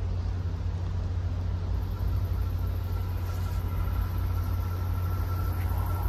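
Steady low rumble of an approaching train, still far down the track, with a faint steady whine joining about two seconds in.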